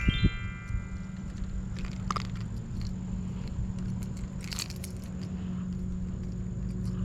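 Handling of a freshly landed bass and its topwater lure: scattered light clicks and rattles over a low steady rumble, with a couple of thumps at the very start.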